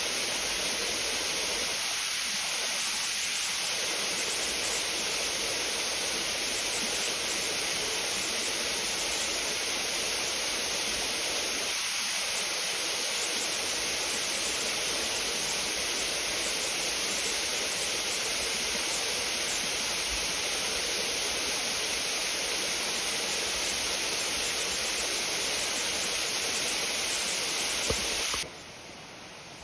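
Steady rush of a waterfall, a dense even roar of falling water that cuts off suddenly near the end.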